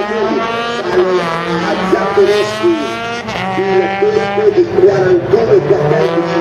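Peugeot 208 rally car's engine revving hard under acceleration, its pitch climbing and dropping back at each gear change.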